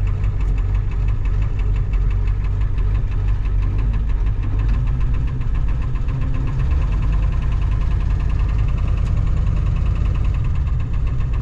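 1993 Ford F-350's 7.3 IDI diesel V8 idling steadily, with an even diesel clatter.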